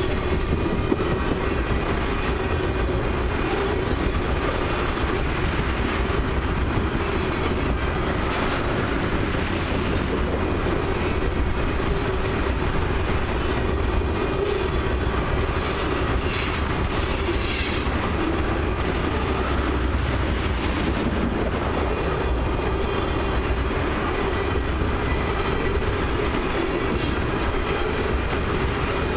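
Loaded tank cars of a long freight train rolling past at a grade crossing: a steady rumble of steel wheels on rail with clickety-clack over the joints.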